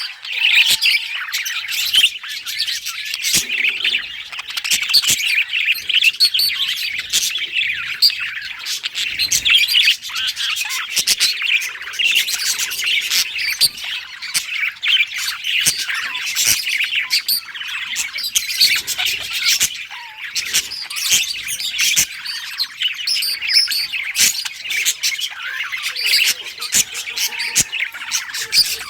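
Budgerigars chattering and warbling: a dense, continuous stream of quick high chirps, whistles and clicks from several birds.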